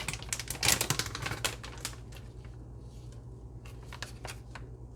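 A utensil clicking and scraping against a bowl as a creamy cheese filling is stirred: a quick flurry of clicks in the first two seconds, then a few scattered ones.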